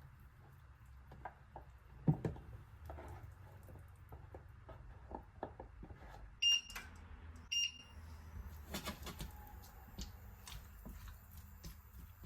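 Two short electronic beeps about a second apart from a kitchen appliance's controls, amid light knocks and clatter of kitchen work.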